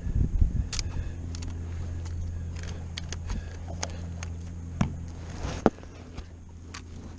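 A boat motor's steady low hum with scattered light clicks and knocks. The hum cuts off with a sharp click about five and a half seconds in.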